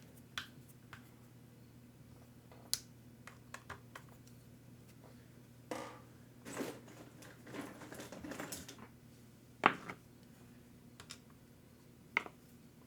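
Allen keys and small screws being handled at a workbench: scattered light clicks and taps, busiest around the middle, with the loudest knock just before ten seconds in.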